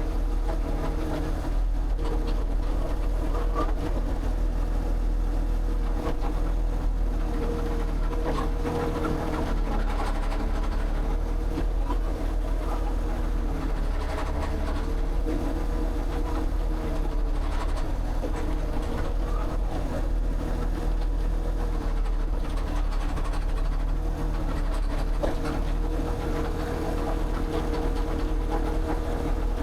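A motor or engine running steadily with a low drone and a hum that wavers slightly in pitch.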